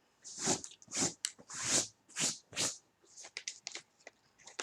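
A person chewing cashews close to the microphone: a run of crunches, about two or three a second, giving way to softer, smaller crackles near the end.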